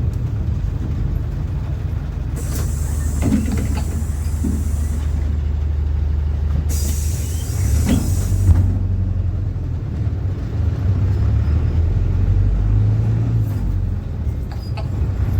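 PAZ-4234 bus's diesel engine running with a steady low drone, heard from inside the bus. Compressed air hisses twice, for about two seconds each time, starting about two seconds in and again about seven seconds in, with a few light knocks.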